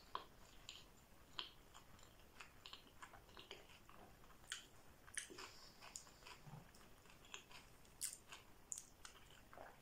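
Close-up sounds of a person chewing sushi rolls: faint, irregular wet mouth clicks and smacks, with a few sharper ticks.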